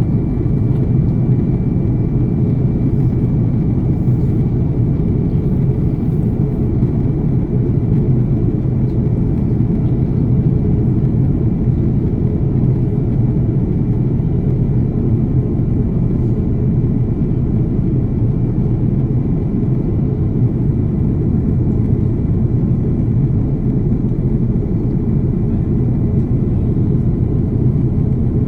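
Steady cabin noise of an Airbus A330 airliner in flight: an even, deep rumble of engines and airflow, with a thin steady whine above it.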